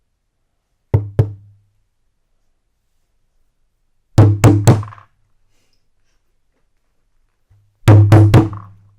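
Sharp knocks on a hollow, resonant object, each with a short low ring: two about a second in, a quick group of three around four seconds, and another quick group near the end.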